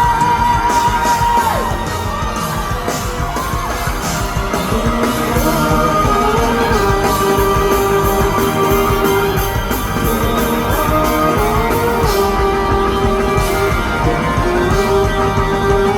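Live rock band playing an instrumental passage with drums, bass and guitar, a lead line of long held notes over the top, with some yelling mixed in.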